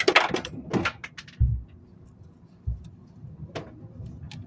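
A few separate knocks and clicks, with two low thumps in the middle, like things being handled and set down.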